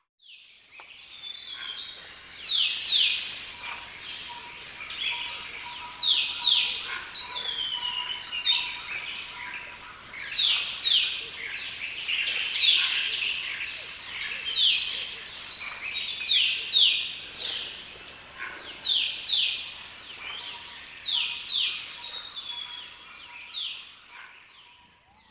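Birds singing, a dense chorus of overlapping calls built from many quick falling notes that repeat throughout, fading near the end. A faint steady tone runs underneath.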